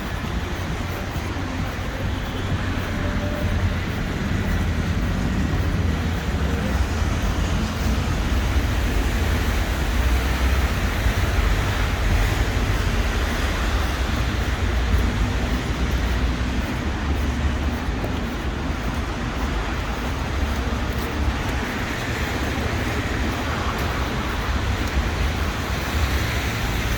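Steady street traffic noise: a continuous rumble of road vehicles passing.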